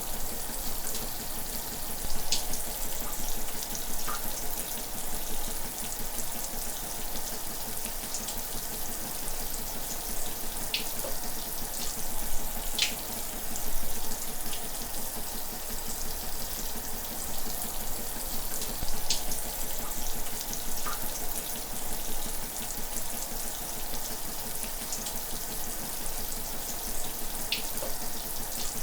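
Shower running steadily: an even hiss of spray with the occasional sharper splash of drops.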